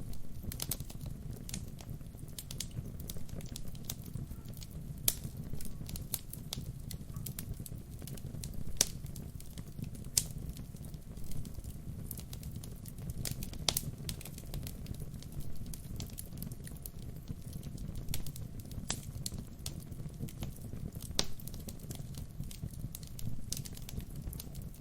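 Wood fire burning with a steady low rumble and irregular crackling, several sharper pops standing out.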